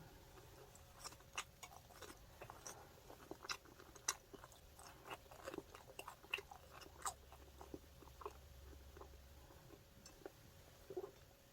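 A person chewing a fried chicken burger close to the microphone: faint, irregular small clicks and mouth sounds of eating.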